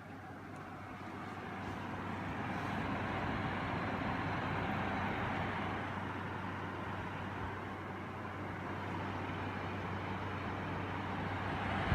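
Panasonic CS-EX288C room air conditioner running: a steady rush of blown air over a low hum, the airflow growing louder over the first few seconds and then holding.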